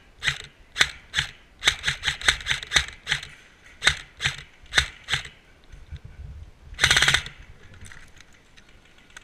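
Krytac CRB airsoft electric rifle firing a quick string of single shots, each a sharp crack, for about five seconds. About seven seconds in comes one short full-auto burst.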